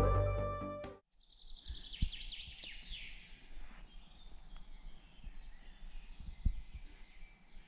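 Background music fading out in the first second, then a songbird singing one run of quick falling notes for a couple of seconds, then faint outdoor ambience with a couple of soft thumps.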